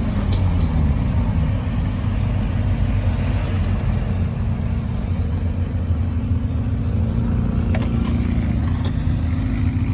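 A car engine running steadily at low revs, a deep even rumble, its pitch easing down in the first second or so.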